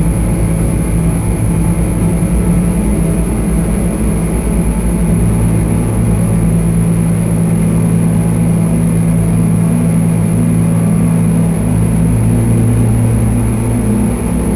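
Dark ambient drone played on a Lyra-8 synthesizer: dense, sustained low tones over a noisy rumble, with thin steady high whines above. A second, lower tone swells in about five seconds in.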